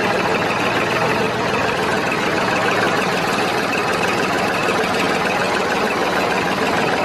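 A small motor running steadily with a dense, buzzing mechanical noise.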